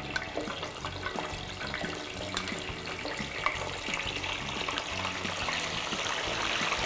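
Pieces of pressure-cooked duck deep-frying in hot oil in a square ceramic-coated pan: a dense sizzle with many small crackles that grows slowly louder.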